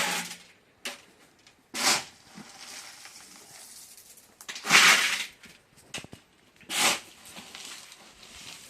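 Four short gritty scrapes about two seconds apart, like a shovel being pushed into and through a pile of sand, stone and cement while concrete is mixed by hand.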